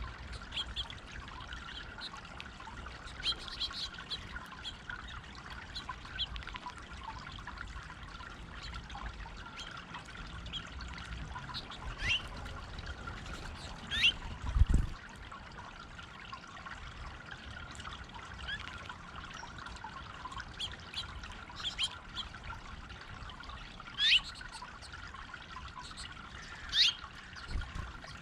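Steady trickle and splash of water running over a stone fountain, with short high bird chirps now and then, a few of them sharper and louder. A single low thump about halfway through.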